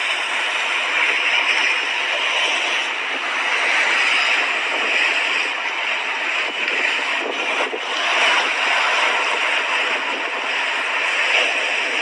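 Mediterranean sea waves washing onto the shore: a steady rushing surf that swells and eases gently.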